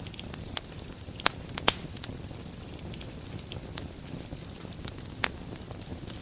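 Wood fire burning in a fireplace: a steady low rush with scattered small crackles and a few sharp pops. The loudest pops come as a cluster about one and a half seconds in, with another about five seconds in.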